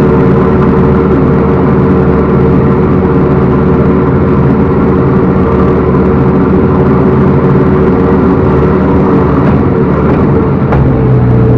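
Backhoe loader's diesel engine running steadily at work, with a click near the end, after which the engine note shifts lower and stronger.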